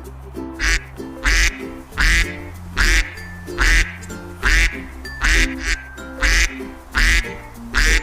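Duck quacking about ten times in an even series, roughly one quack a second, over background music with a steady bass line.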